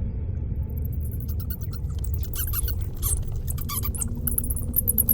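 A swarm of bats pouring out, with many shrill squeaks and chirps coming thick and fast from about a second in, over a steady low rushing rumble.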